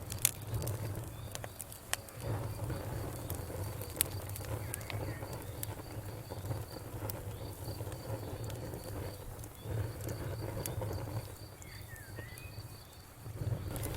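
Wood fire crackling: scattered sharp pops and snaps over a low steady rumble of the burning fire, with the loudest snaps about a quarter second and four seconds in.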